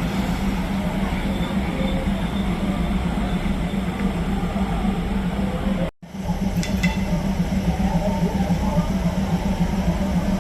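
Diesel railcar's engine running steadily with a low hum and rumble. The sound cuts out abruptly for an instant about six seconds in, then carries on unchanged.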